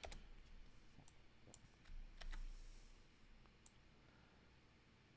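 A few faint, scattered computer clicks against near silence.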